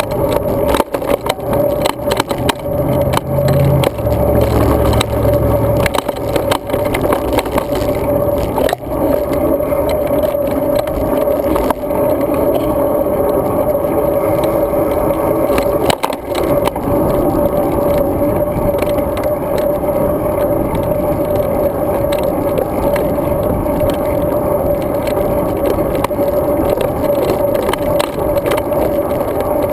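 Riding noise of a road bike as heard by a GoPro Hero 2 riding along with it: a steady loud rumble with a constant hum, and frequent small knocks and rattles from vibration over the pavement.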